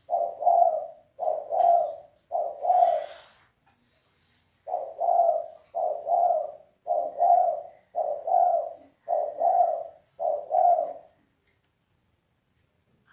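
Spotted dove cooing: a series of low, half-second coos, three in a row, a short pause, then six more, before falling silent about two seconds before the end.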